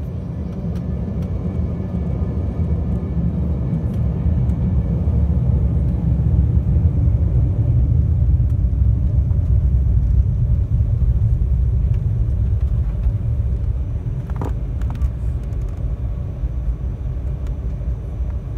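Low rumble inside the cabin of an Embraer 195 jet taxiing, its engines running and wheels rolling on the taxiway; it builds over the first several seconds, then eases slightly.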